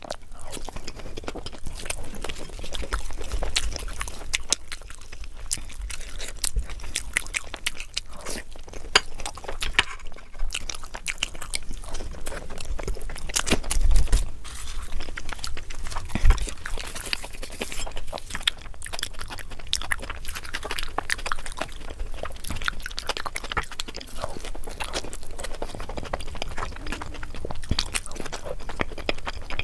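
Close-miked chewing and mouth sounds of someone eating luchi (puffed deep-fried bread) with dum aloo (spiced potato curry): a steady run of small irregular clicks and smacks, with a few louder low knocks about halfway through.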